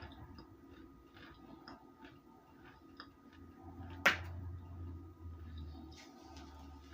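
Chewing and crunching hard chunks of baked or microwaved cornstarch: small irregular crackles, with one sharp crack about four seconds in and a low rumble that follows.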